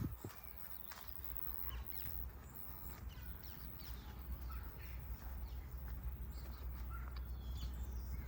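Several small birds chirping with short, scattered calls, over a steady low rumble; a brief knock right at the start is the loudest sound.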